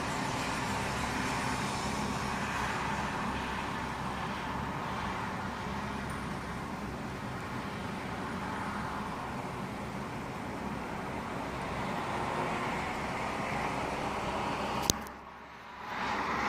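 Steady rushing noise of city road traffic. Near the end a single sharp click is followed by a drop in the sound for about a second before it returns.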